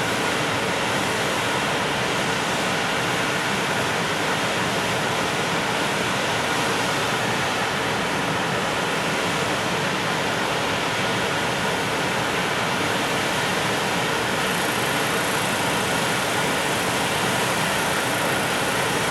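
A long freight train of Koki container wagons rolling past, a steady, even rush of steel wheels on rail.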